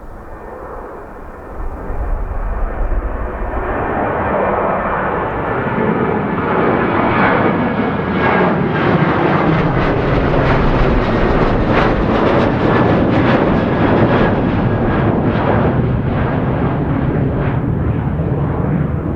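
Airliner's engines at takeoff power as it passes on its takeoff run, the noise swelling from about two seconds in to a loud, steady peak through the middle. Wind buffets the microphone underneath.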